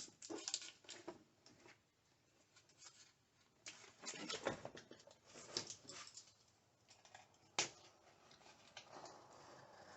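Faint, irregular rustling and light taps in short scattered bursts, with one sharp click about three-quarters of the way through.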